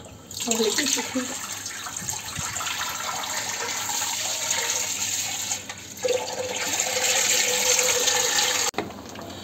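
Water running steadily from a kitchen tap into a sink, briefly easing about six seconds in and then shutting off abruptly near the end.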